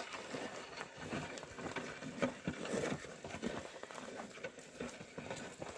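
Oxen walking a ploughed field, with irregular soft hoof steps and scuffs.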